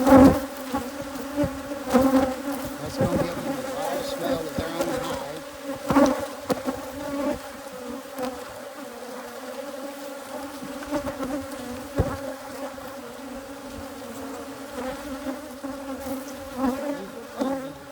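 Hybrid Africanized honey bees buzzing in a steady hum around the opened hive, with a few sharp knocks mixed in.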